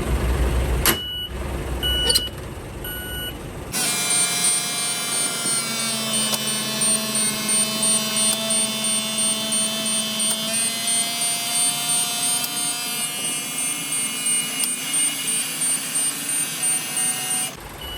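Truck warning beeper sounding in short repeated tones, then a steady mechanical whine made of many held tones that pulses about twice a second and stops suddenly near the end.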